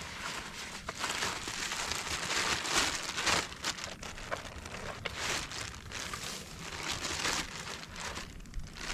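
Irregular crinkling and rustling that comes in uneven bursts, with louder swells every couple of seconds.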